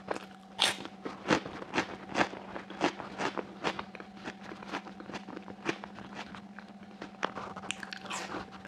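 Close-miked biting and crunchy chewing of raw onion, with sharp, irregular crunches several times a second, loudest in the first few seconds. A faint steady hum sits underneath.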